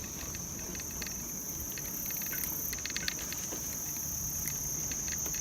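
Crickets trilling in one steady high-pitched drone, with scattered faint clicks and a low rumble underneath.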